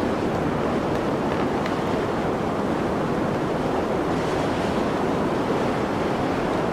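Blizzard wind blowing as a steady, even rush with no distinct gusts.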